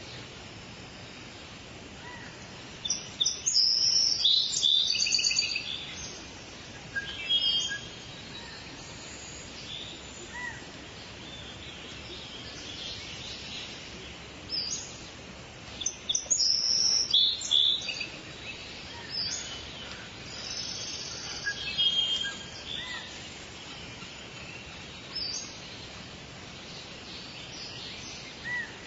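Forest birds singing and calling in short, high-pitched phrases that come in bunches, busiest a few seconds in and again about halfway through, over a steady hiss of forest background noise.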